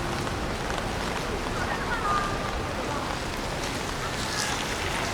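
Steady rain falling on the street, an even hiss of water, with faint voices in the background.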